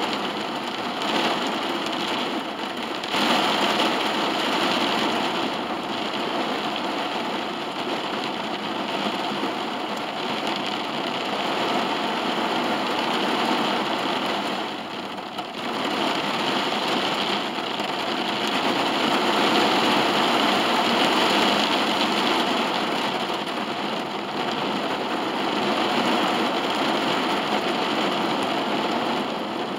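Heavy rain falling on a car's roof and windows, heard from inside the car: a steady hiss that swells and eases, with a brief lull about halfway through.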